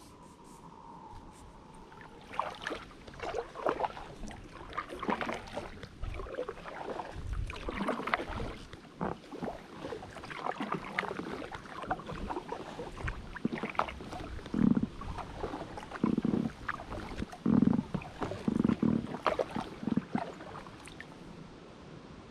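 Kayak paddling from an Itiwit X100+ drop-stitch inflatable kayak: paddle blades dipping, splashing and dripping in the water. Stronger, deeper strokes come about every second and a half in the second half.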